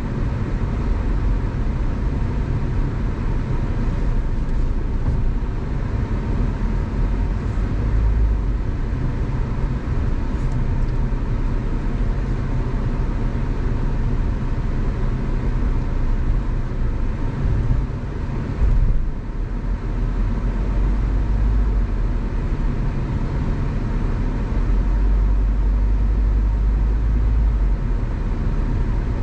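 A car driving along a road: steady tyre, road and engine noise, heaviest in the low rumble, with a brief lull about two-thirds of the way through.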